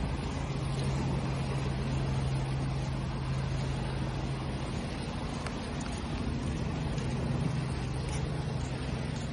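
Sea waves washing in a continuous hiss, with a steady low engine hum underneath; a second, higher hum joins about five seconds in.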